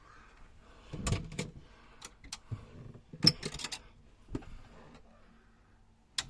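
Irregular knocks and clicks, about nine in all, the loudest about three seconds in.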